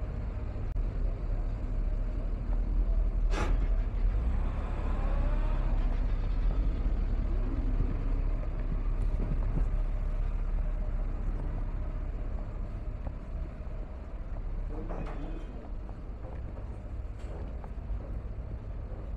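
Passenger train running: a steady low rumble, with two sharp knocks, one about three seconds in and one about fifteen seconds in.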